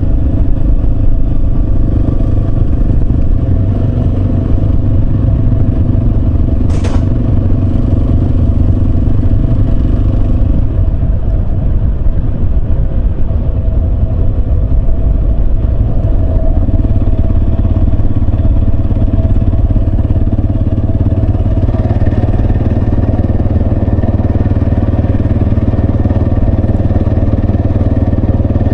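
Yamaha Serow 250's single-cylinder engine running steadily as the motorcycle is ridden, with a brief sharp click about seven seconds in.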